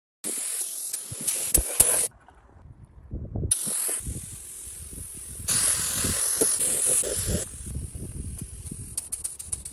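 Hissing spray in three bursts, each one to two seconds long, with small knocks between them.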